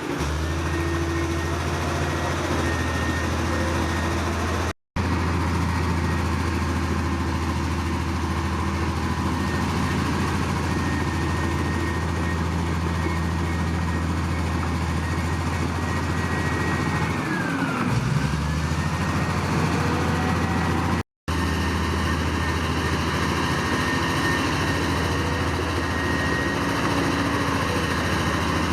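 Heavy diesel engine of earthmoving machinery running steadily. About 18 seconds in its speed sags briefly and then picks back up, as under a sudden load. The sound cuts out for an instant twice.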